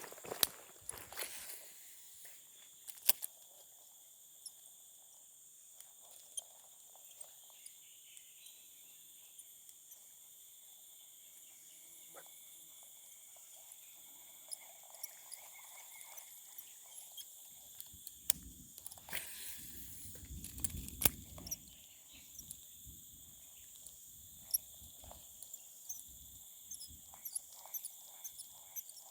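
Insects chirring in a steady high drone, with scattered small clicks and a short stretch of rustling and knocks a little past the middle.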